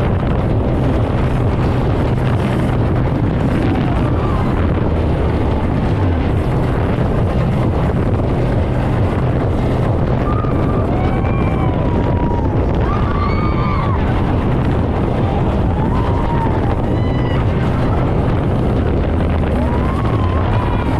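Speedboat running fast at sea: a steady engine drone under loud rushing wind and water noise. From about halfway in, short voice calls rise and fall in pitch over the noise.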